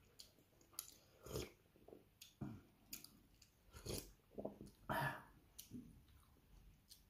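A person chewing and eating a mouthful of rice and pork belly, with irregular wet chewing and smacking sounds and a few light clicks of a metal spoon on the plate; the loudest bite comes about five seconds in.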